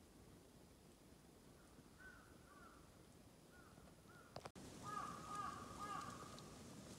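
Faint bird calls, a quick series of repeated arching notes, with a sharp click and momentary dropout about two-thirds of the way in, after which the calls are louder.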